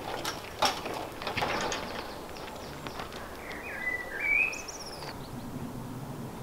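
A songbird chirping a short run of notes about halfway through, over steady outdoor background noise. A few sharp knocks come in the first second and a half.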